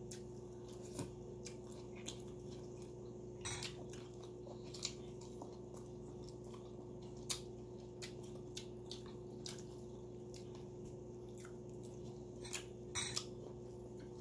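A person chewing air-fried milkfish (bangus) picked by hand: scattered short wet smacks and clicks of the mouth and fingers, over a steady low hum.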